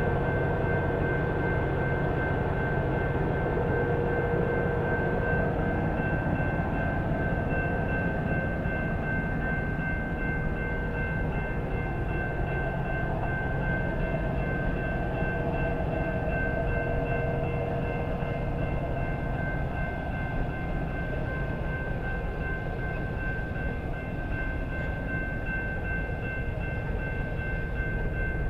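Grand Canyon Railway train running: a steady rumble with a few high, steady ringing tones held throughout.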